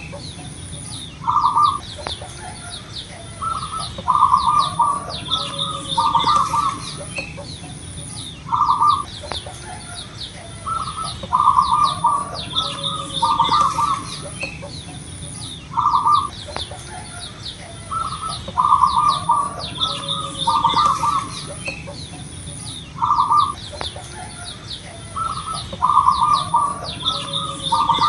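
Zebra doves (perkutut) cooing: short, rapid cooing phrases repeated every second or two, sometimes overlapping, with fainter thin high chirping behind them.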